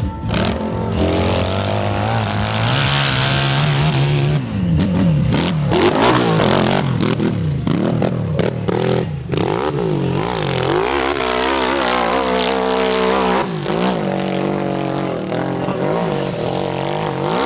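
Enduro motorcycle engines revving hard, their pitch rising and falling in repeated surges as the bikes labour up a steep dirt hill climb.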